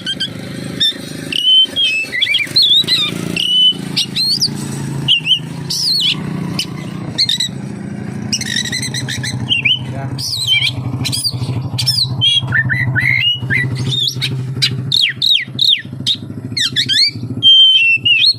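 Oriental magpie-robin (kacer) singing a fast, varied song of sharp whistles, slurred glides and harsh notes, with phrases mimicked from other birds worked in. A steady low hum runs underneath.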